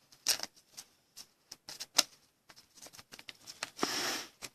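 Trading cards and a plastic card sleeve being handled: scattered small clicks and taps, with a short sliding rustle near the end as a mini card goes into the sleeve.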